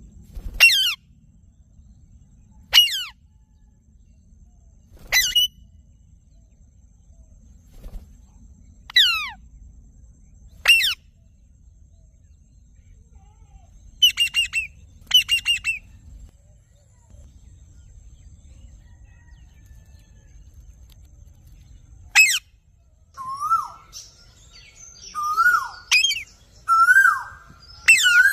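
Parrot squawking: short, harsh, sharply falling calls every few seconds, with a quick run of several about halfway through. Near the end, a lower call that rises and falls repeats about once a second, mixed with quicker chirps.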